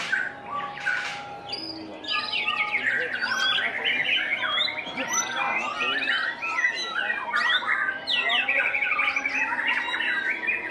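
White-rumped shama (murai batu) singing a fast, varied, unbroken song of whistles, trills and harsh scratchy notes, growing denser and louder about two seconds in.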